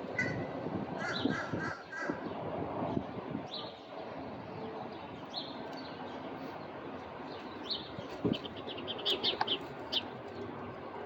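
Small birds chirping: short high chirps scattered through, a few quickly repeated notes in the first couple of seconds and a fast run of chirps near the end, over steady background noise.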